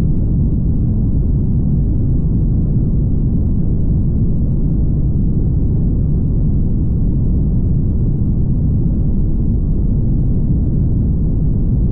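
Steady low rumble of a car driving at highway speed: road and wind noise, muffled, with nothing high-pitched and no changes.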